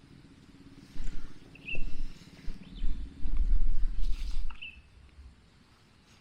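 Low rumbling noise in uneven surges, loudest from about a second to four and a half seconds in, with a short high bird chirp twice.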